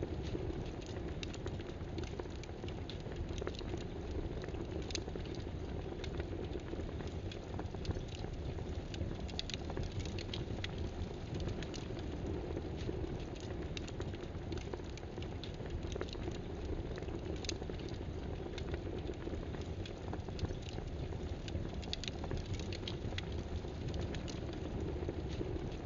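Computer keyboard typing: irregular clicks of keystrokes over a steady background hiss.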